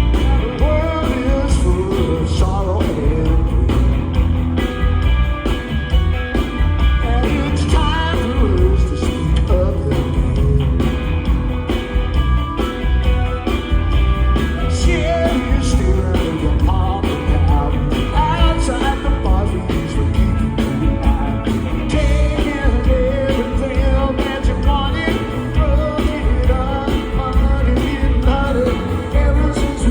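Live rock band playing loudly with singing over a heavy bass line and a steady beat.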